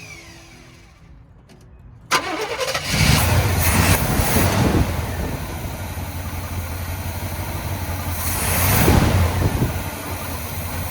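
1984 Chevy C20 pickup's carbureted gasoline engine coming on suddenly about two seconds in, then running steadily with a low, even exhaust note, getting louder for a moment near the end as the revs rise.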